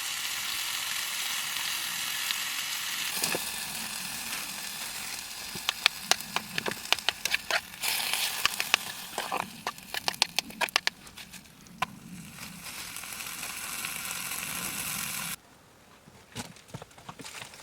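Food sizzling in a pan over a fire, a steady hiss, with a run of sharp clicks and taps in the middle. The sizzling cuts off suddenly near the end.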